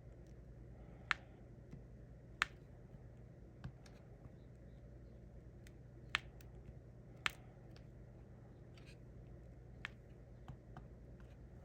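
Small sharp plastic clicks and taps from diamond painting: the drill pen pressing resin drills onto the canvas and picking them from the tray, at irregular intervals with five louder clicks, over a faint steady low hum.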